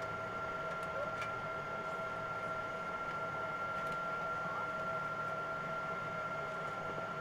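Boeing 777 cabin noise after landing: steady engine and air-system rumble with a thin, even whine, and a few faint clicks.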